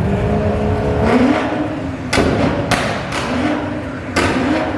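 Car engine being revved in short blips, its pitch rising and falling, with several sharp loud cracks through the second half.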